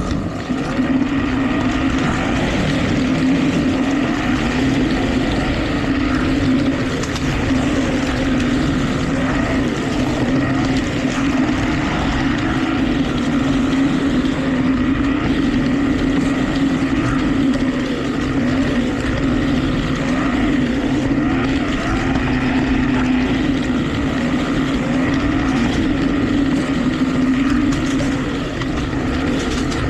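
1/32 Carrera Digital 132 slot car running laps on its plastic track: a steady motor whine whose pitch rises and falls with speed, heard from a camera riding on a car.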